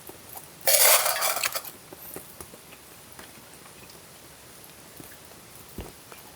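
Camp cookware and utensils being handled: a loud rush of noise lasting about a second, then light scattered clinks and taps, and a dull knock near the end.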